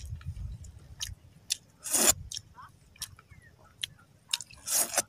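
Close-up eating sounds of someone chewing sea urchin: scattered wet mouth clicks and lip smacks, with two longer breathy slurps, one about two seconds in and one near the end.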